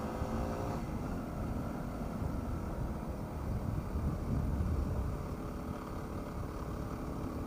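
Yamaha WR250R's single-cylinder four-stroke engine running as the bike is ridden. A steady engine tone for about the first second then drops away, leaving a low rumble mixed with wind noise that swells a little in the middle.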